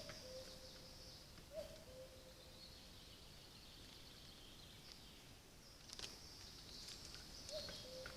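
Faint outdoor ambience picked up by a trail camera. A short low call with a quick rise at its start sounds twice at the beginning and again near the end, over a faint band of high-pitched chirps, with a few soft clicks.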